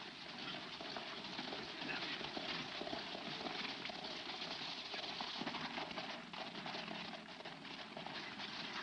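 Hoofbeats of horses on the move, a dense, steady clatter of many hoof strikes.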